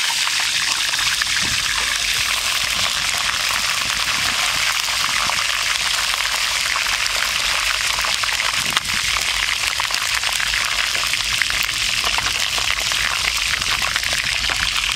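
Whole chicken frying in hot oil in a frying pan: a steady crackling sizzle, with one sharper click about nine seconds in.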